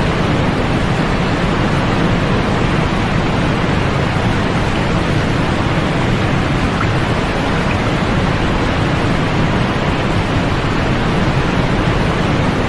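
Steady white-noise sleep sound: an unbroken, even hiss with a deep rumble underneath and duller highs, never changing.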